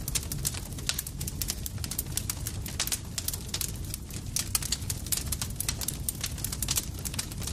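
Campfire crackling: dense, irregular sharp pops and snaps, several a second, over a steady low rumble of the burning fire.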